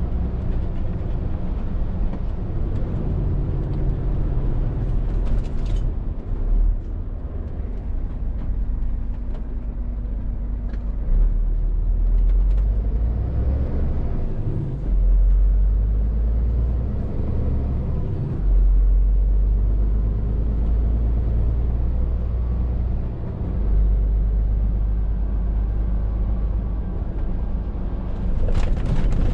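Scania R450 lorry's six-cylinder diesel heard from the cab while driving, a steady low drone that steps up and down in level several times. A brief hiss comes near the end.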